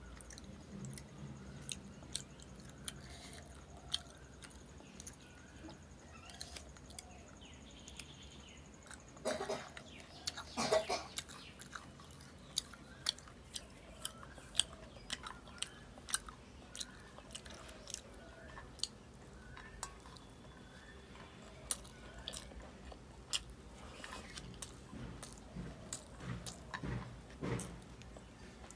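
Close-miked chewing and mouth sounds of someone eating rice and curry by hand, with frequent short wet clicks and smacks and a louder stretch about ten seconds in.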